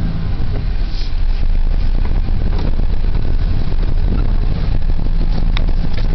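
1990 Ford F-150's 4.9-litre straight-six engine running steadily under load as the truck pulls up out of a ditch, with a couple of sharp knocks or rattles.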